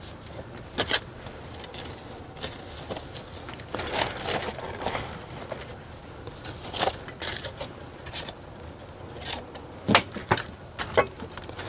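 Scattered light clicks and knocks, with a busier rustling stretch about four seconds in, from hands and a basting brush working over sauced pork ribs and their tray.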